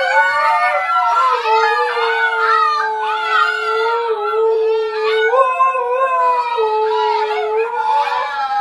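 Dogs howling in long, drawn-out notes, several howls overlapping at different pitches.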